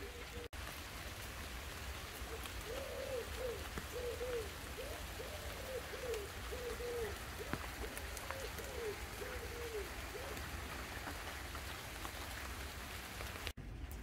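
Steady summer rain pattering on garden leaves. From about two seconds in until about ten seconds, a pigeon coos over and over in short, evenly spaced notes.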